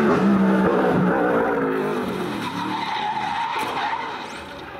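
Hillclimb race car passing at full attack, its engine loudest at the start and fading as it goes away, with tyres skidding and squealing partway through.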